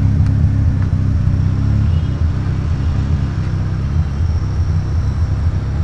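Engine of a home-built tube-frame buggy idling with a steady low rumble.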